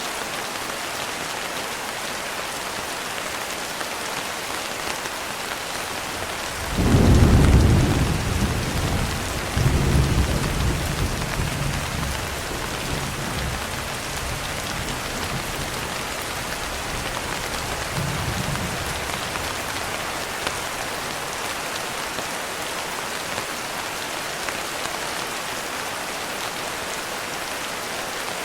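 Steady rain falling, with thunder: a loud rumble breaks in suddenly about a quarter of the way in, swells again a few seconds later and rolls away slowly, and a fainter rumble follows some seconds after.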